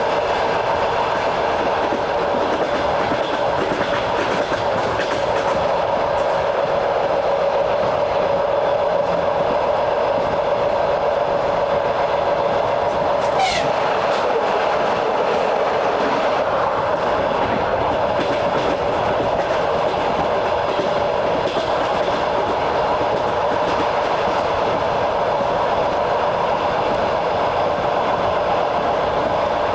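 Train running steadily along the track, heard from on board: a continuous rumble with a steady hum and some clickety-clack of the wheels. About 13 seconds in, a brief high sound glides quickly down in pitch.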